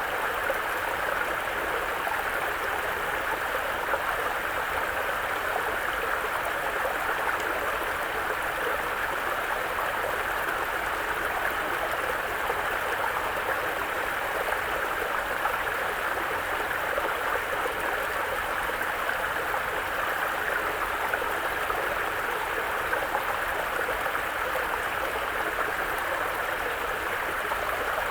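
Mountain brook running over rocks: a steady rush of flowing water with gurgling.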